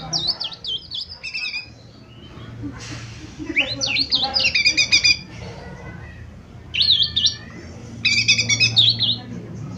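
Cucak ijo mini (a small green leafbird) singing in three bursts of fast, rising and falling whistled notes, with short pauses between them.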